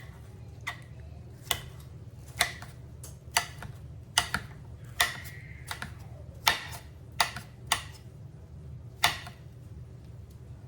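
Kitchen knife chopping slowly and unevenly on a cutting board while dicing vegetables by hand: about a dozen separate taps, roughly one a second, over a steady low hum.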